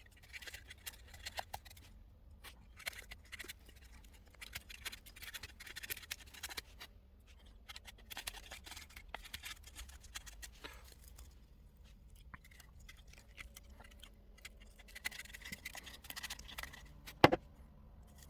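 A knife blade shaving thin curls down a stick of wood to make a feather stick: repeated short scraping strokes in bursts, with brief pauses. A single sharp knock near the end.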